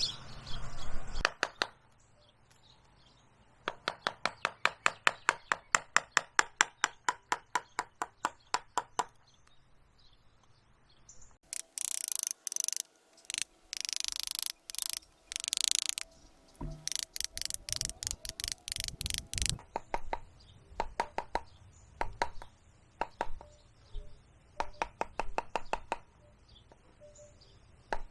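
Hand carving gouge being struck into the wood of a tree, a fast even run of sharp knocks at about five a second. Then come a few longer, noisier strokes, another quick run of knocks, and scattered single knocks.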